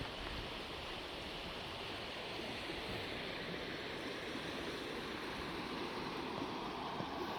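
Steady rushing of flowing floodwater, an even wash of noise that swells slightly toward the end.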